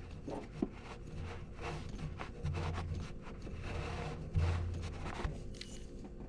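Irregular rubbing and scraping from hand work on engine parts, with no steady rhythm.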